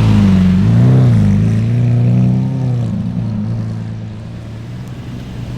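Car engine running loudly with a quick rev about a second in, then fading away as the car drives off.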